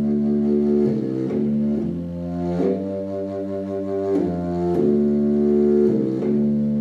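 Contrabass flute playing a slow melody of long, low notes.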